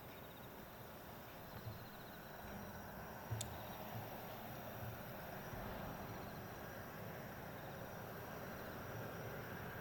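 Distant jet airliner approaching, a faint rumble slowly growing louder, with insects chirping in short repeated trills over it and one sharp click a few seconds in.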